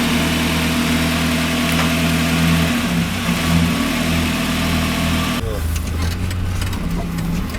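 GAZelle van engine running steadily just after being started on a newly refitted starter, with its rebuilt gearbox fitted. A hissing noise over the engine cuts off suddenly about five seconds in, and the engine keeps running.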